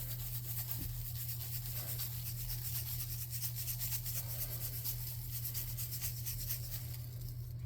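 Sand being sprinkled and spread over a glue-coated board, a faint grainy rustling and rubbing, over a steady low hum.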